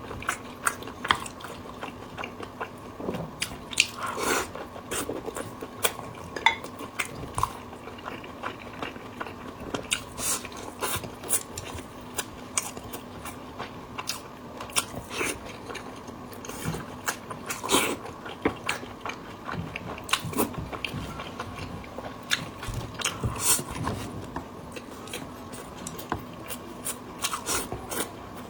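Close-up chewing and biting of fatty red-braised pork: irregular wet clicks and smacks of the mouth throughout, over a faint steady hum.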